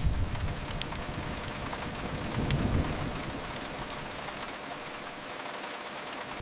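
Steady hiss of rain, with a low rumble that swells about two and a half seconds in and then fades, and a few faint crackles.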